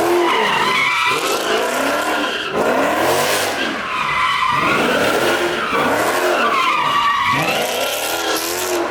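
A car doing donuts or drifting. The engine revs up and down in a repeating cycle every couple of seconds while the tires squeal steadily.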